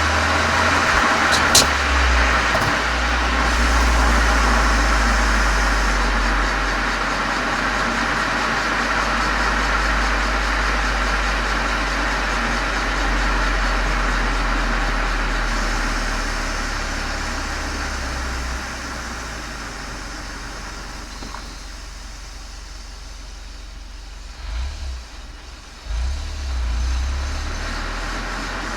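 Exhaust note of a Volkswagen Golf 7 GTI's turbocharged four-cylinder through a Cox aftermarket muffler and chamber, heard from outside at the tail: a steady low drone over a broad rush. It eases off about two-thirds of the way through, with a couple of short swells near the end.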